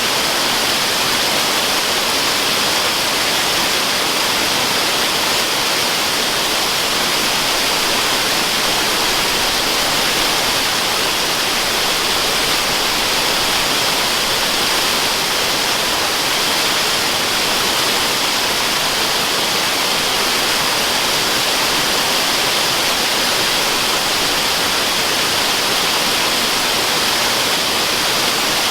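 Waterfall rushing without a break, a hissy, even noise with little deep rumble.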